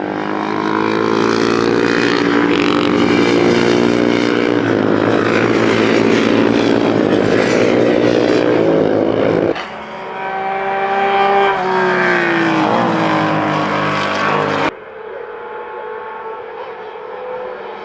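Classic racing motorcycle engines at high revs on track, loud and steady for the first half. The sound cuts abruptly twice to other bikes, one falling in pitch as it passes.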